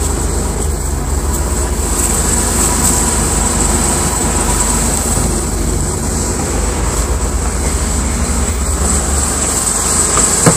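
Supercharged 3.8-litre V6 (GM L67) of a 1998 Oldsmobile LSS idling steadily with the hood open, a low even rumble.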